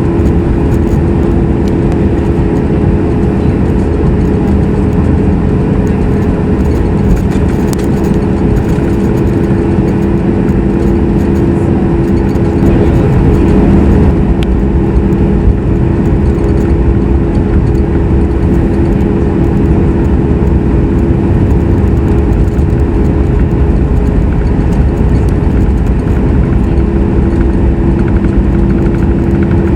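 Cabin noise of a Boeing 737 MAX 8 with its CFM LEAP-1B jet engines running: a steady, loud drone of engine and airflow with a few constant hums underneath, heard from a seat over the wing.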